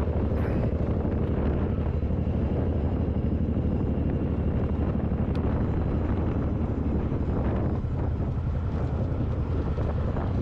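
Suzuki Boulevard M109R's 1783 cc V-twin engine running steadily while the motorcycle is ridden at road speed, with wind buffeting the microphone.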